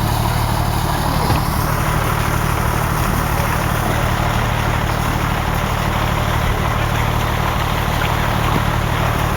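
Fire engine's engine running steadily, a constant low engine hum with an even background noise.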